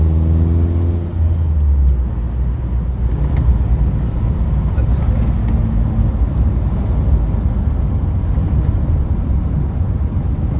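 A classic car driving, heard from inside the cabin: the engine note rises slightly for the first second or two, then gives way to a steady low rumble of engine and road noise.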